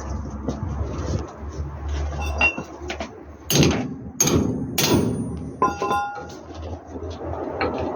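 Metal knocks and clanks, as from hammering or metal tools on parts during truck brake-lining work. There are about four loud strikes in the middle, and the last one leaves a brief metallic ring.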